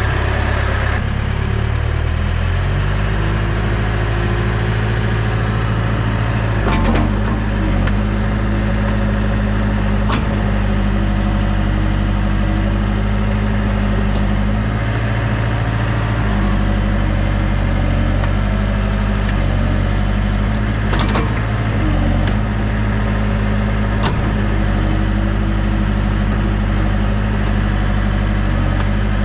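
Heavy equipment engine running steadily under load, its pitch shifting a few times, with several short sharp knocks scattered through.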